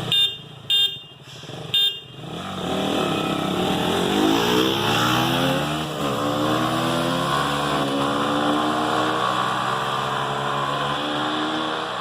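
Single-cylinder sport motorcycle engine accelerating hard, its pitch rising through the gears, with a brief drop at a gear change about six seconds in. Three short beeps come first, in the opening two seconds.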